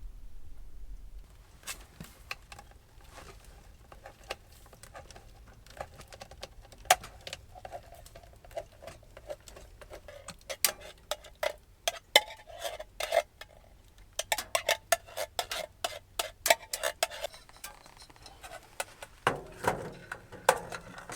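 Metal utensil clinking, tapping and scraping in a cooking pot during stirring, a long irregular run of sharp clicks that gets busier about halfway through.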